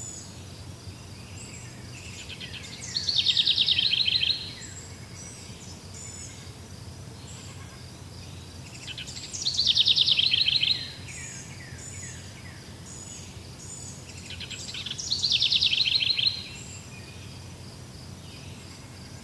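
Forest bird song: a loud, fast trill of falling notes, given three times about six seconds apart, over a steady background of thin high chirping from other birds and insects.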